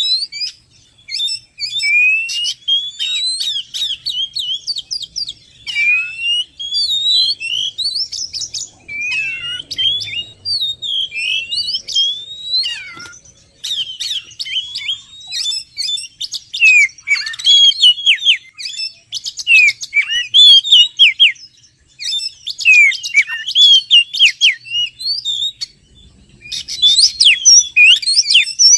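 Oriental magpie-robin singing: a long, varied run of whistled phrases, rising slurs and rapid chattering notes, broken by a few short pauses.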